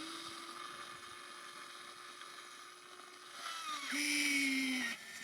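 Small electric motor and gearbox of a radio-controlled construction model whining steadily. About four seconds in it gets louder and drops a little in pitch, then cuts off suddenly near the end.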